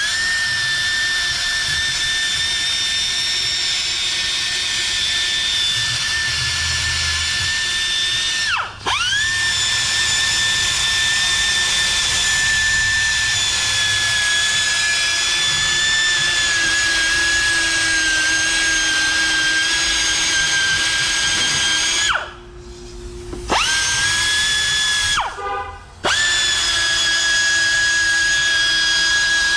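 High-speed rotary tool with a carbide burr grinding down fresh weld, a steady high whine. It spins up at the start, is let off briefly about a third of the way in, and stops and restarts twice near the end.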